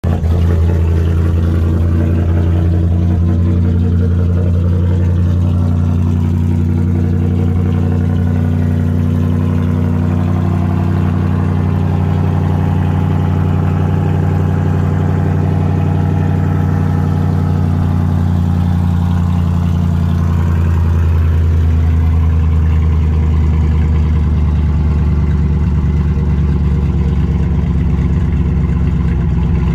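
Supercharged Hellcat V8 with an aftermarket cam, swapped into a Ram 2500 pickup, idling loud and steady on its first start-up while still untuned. The idle shifts slightly about twenty seconds in.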